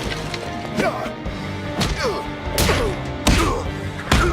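Fight-scene soundtrack: action music under a series of sharp punch and kick impacts, about five hits spaced roughly a second apart.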